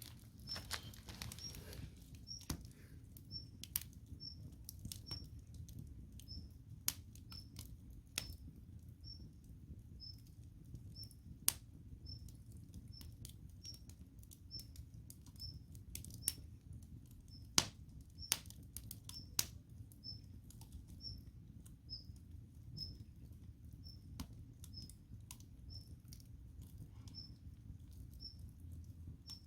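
Firewood burning in a campfire, crackling with irregular sharp pops and snaps over a low steady rumble of the flames. A faint high chirp repeats about once a second throughout.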